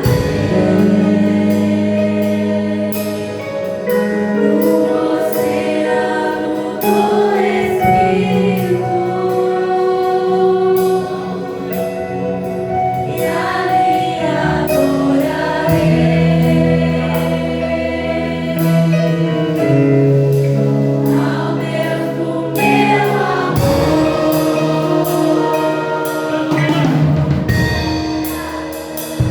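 Live congregational worship music: voices singing with a band, sustained chords and a steady drum beat.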